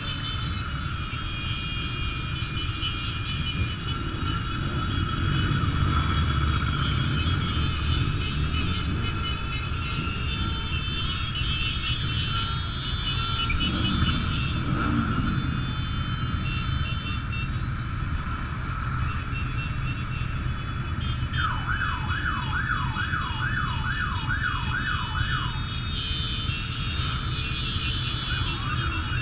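Motorcycle engines running steadily in a group ride. A siren cuts in with a fast yelp of rising sweeps, about two a second, for some four seconds past the middle, and briefly again near the end.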